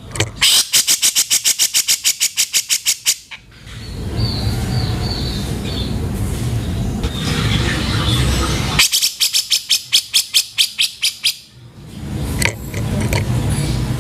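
Cucak jenggot (grey-cheeked bulbul) calling: two rapid, harsh rattling runs of about eight notes a second, one near the start and one past the middle, with lower chattering between them.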